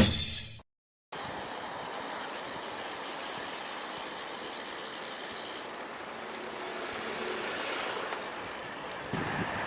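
Steady rushing wind and road noise of a road bike ride, picked up by an action camera. It is preceded right at the start by a brief loud hit that fades within half a second and ends in an abrupt cut to silence.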